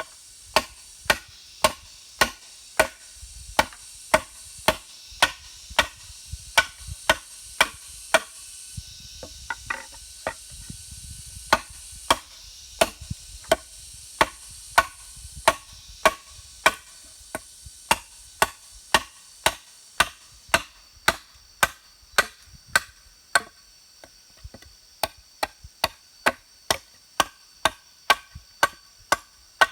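Repeated chopping strikes on wood, about two a second, each with a short ringing note. A stretch of softer, uneven blows comes about ten seconds in before the steady rhythm resumes.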